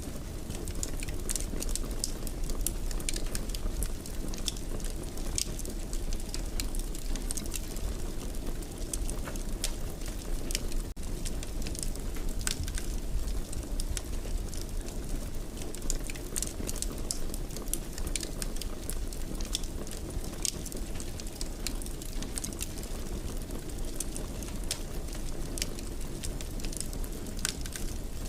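Wood fire crackling in a fireplace: a steady low rumble of flames with frequent, irregular sharp crackles and pops.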